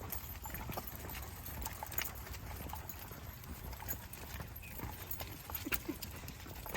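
Irregular footsteps and paw-falls on a path while walking with a pack of dogs, with scattered light clicks and taps over a steady low rumble.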